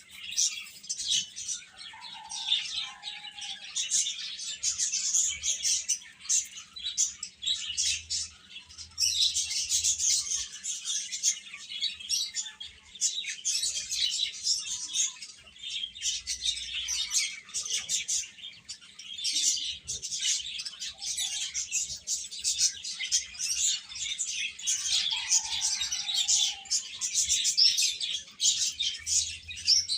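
A brood of chicks chirping continuously, many high peeps overlapping at once and swelling and easing in loudness.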